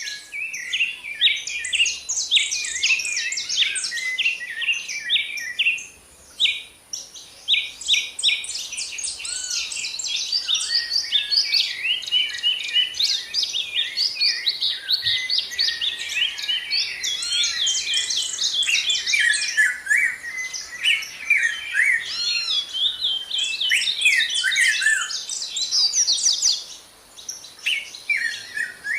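Songbirds singing in a dense chorus of rapid chirps and trills, with brief lulls about six seconds in and again near the end.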